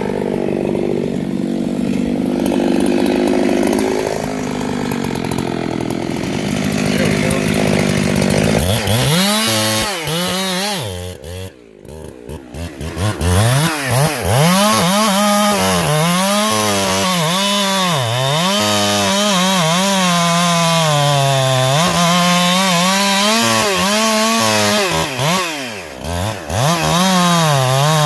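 Gas chainsaw cutting into a large maple log. It runs steadily under load for the first several seconds and drops off briefly about a third of the way in. Its engine speed then rises and falls about once a second as the chain bites into the wood and eases off.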